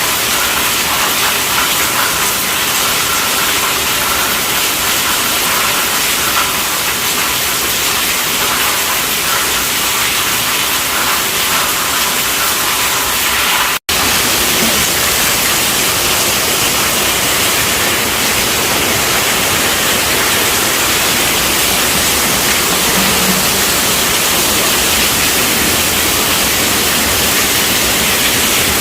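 Heavy rain drumming steadily on a tent roof, a dense even hiss that breaks off for a split second about halfway through before carrying on unchanged.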